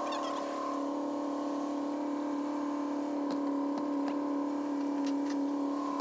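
A steady mechanical hum at a constant pitch, with a few faint clicks.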